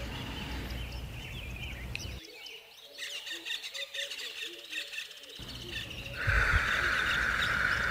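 Birds chirping and tweeting in an outdoor ambience. About six seconds in, a louder steady hiss joins, along with a brief low thump.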